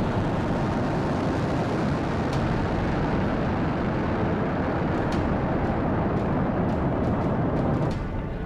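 Falcon 9 rocket's nine Merlin first-stage engines at full thrust just after liftoff: a loud, steady rushing noise with a few scattered crackles, dropping somewhat in level near the end.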